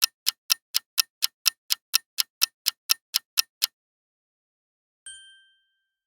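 Countdown timer sound effect: a clock ticking about four times a second, stopping after about three and a half seconds. About five seconds in comes a single short, bright ding that fades quickly.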